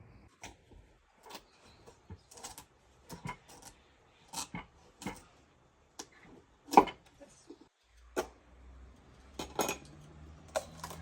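Kitchenware being handled: irregular sharp clinks and knocks of utensils against dishes and pots, roughly one or two a second, with one louder knock about seven seconds in. A faint low hum joins near the end.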